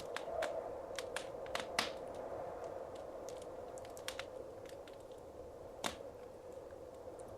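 Wood fire crackling in a fireplace: irregular sharp pops and snaps over a soft steady hiss, with a louder pop near the start and another about six seconds in.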